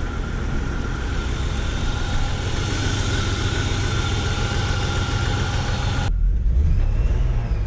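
BMW E36 engine idling steadily, a little rough, which the owner puts down to a faulty O2 sensor, just after a refresh of its fuel injectors. About six seconds in, the sound changes abruptly to a duller, deeper rumble.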